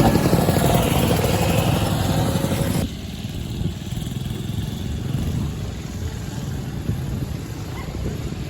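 Vintage motorcycle engine running; about three seconds in the sound cuts off abruptly to a quieter, steady low rumble.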